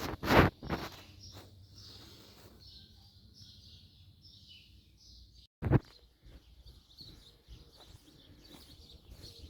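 Small birds chirping over and over in the background, with two loud knocks near the start and another about halfway through.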